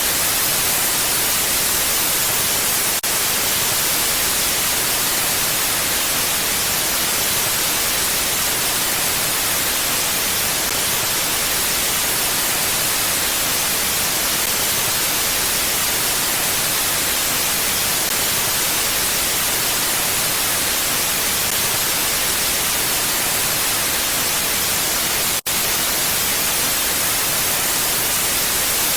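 Steady wind noise: an even, unchanging hiss heavy in the highs, with no gusts. It dips very briefly about three seconds in and cuts out for an instant near the end.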